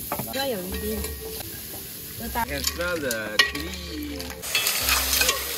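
Clams sizzling in a hot pot as they are stirred with a spatula. The sizzle grows louder near the end.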